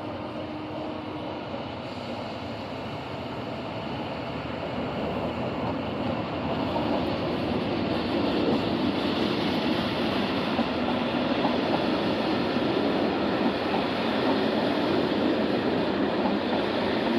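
Locomotive-hauled passenger train arriving. A held horn note dies away shortly after the start, then the rumble of the train grows louder over several seconds and becomes a steady loud rolling of wheels and carriages as it passes close by.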